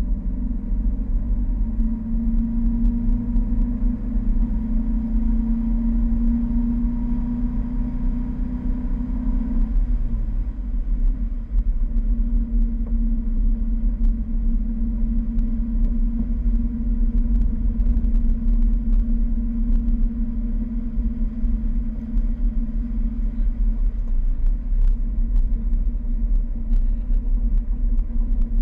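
Fiat 1200 Spyder's 1.2-litre four-cylinder engine running steadily on the road, with a steady low rumble beneath. About ten seconds in the engine note drops and falls away briefly, then settles back to a steady pitch.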